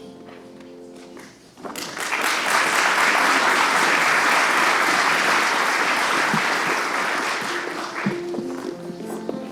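A held musical chord fades, then an audience breaks into applause about a second and a half in. The clapping dies down near the end as instrument notes start again.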